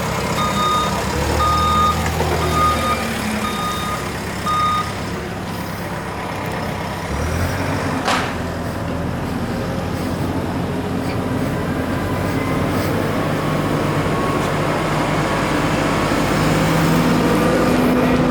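A truck's reverse alarm beeps about twice a second over its running engine, and the beeping stops about five seconds in. A short, sharp burst comes about eight seconds in, and the engine note grows stronger near the end.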